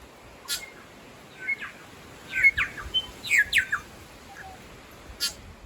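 New Zealand bellbird (korimako) singing: a cluster of quick, downward-sweeping whistled notes in the middle, with a few short sharp chips about half a second in and near the end.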